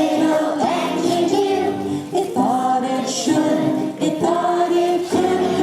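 A group of children singing a song together over musical accompaniment, holding each note for about half a second to a second.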